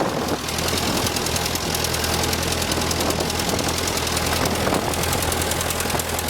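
John Deere tractor engine running steadily: a low, even drone with a fast, regular ticking clatter on top.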